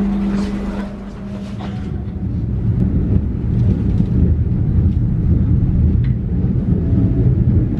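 Passenger train heard from inside the carriage: a steady hum and a few clicks in the first two seconds give way to a low rumble that grows louder and holds.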